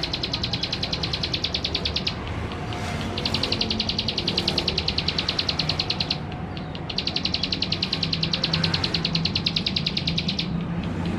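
Male plain prinia (ciblek sawah) singing its fast, buzzy trill in three long runs of about three seconds each, with short pauses between, over a steady low hum.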